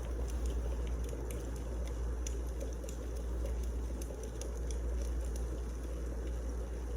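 Wood fire burning in a fireplace: a steady low rumble with many small, irregular crackles and pops from the burning logs.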